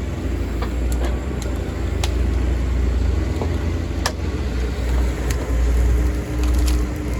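Heavy diesel machine engine running steadily with a deep rumble, with a few sharp cracks or knocks over it.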